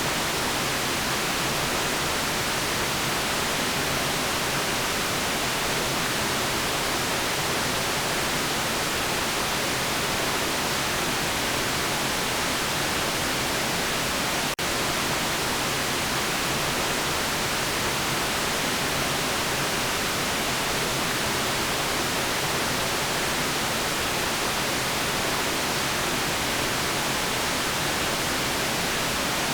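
Steady white noise, an even hiss spread evenly across the whole range, with a very brief dip about halfway through.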